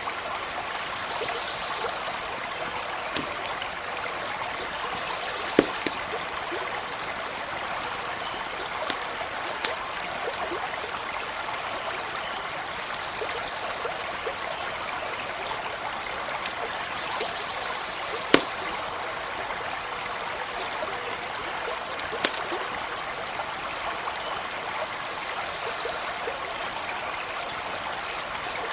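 Stream of running water flowing steadily, with a few sharp pops and crackles from a campfire scattered through it, the loudest about two-thirds of the way in.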